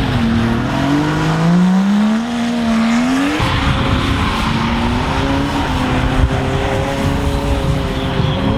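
Drift car engine on the throttle: the revs climb for about three seconds, drop suddenly, then hold steady at high revs.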